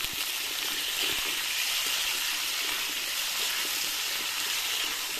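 Potato and cauliflower pieces sizzling steadily in hot oil in an iron wok (kadai).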